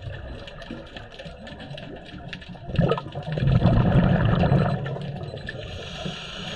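Scuba diver's exhaled bubbles from the regulator: a loud bubbling rush that starts about three seconds in and fades over a couple of seconds, over underwater background with faint scattered clicks.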